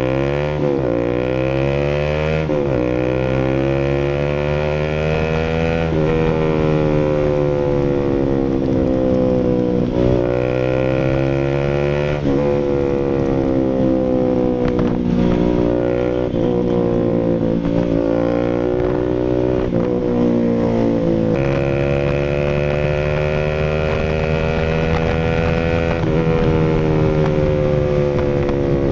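Bajaj Rouser RS200's single-cylinder engine running through an SC Project full aftermarket exhaust. The revs slowly fall and rise over several seconds at a time, with abrupt breaks in the note every few seconds.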